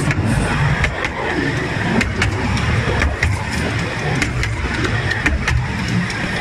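Miniature railway train making a steady low rumble, with scattered sharp clicks throughout.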